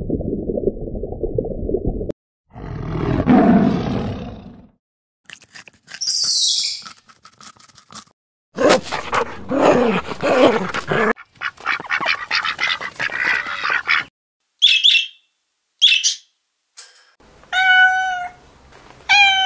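A string of separate short animal sounds with gaps between them: a low rushing noise at first, then assorted calls and a high squeak, and near the end a few short high kitten mews.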